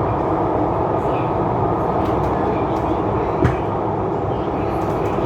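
CRRC Changchun EMU (MTR C-Train) running at steady speed, a constant rumble heard from inside the car, with a single short knock about three and a half seconds in.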